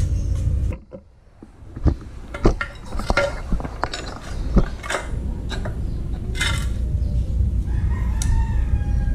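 Sharp metallic clinks and knocks of tools and suspension parts being handled, several scattered over a few seconds, then a rooster crowing in the background near the end.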